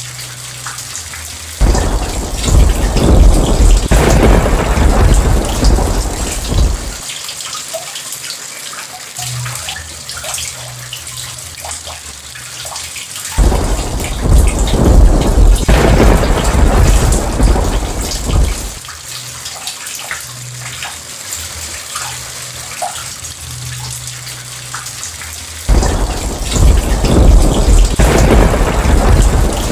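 Steady rain falling, with three rolls of thunder, each lasting about five seconds, coming roughly every twelve seconds.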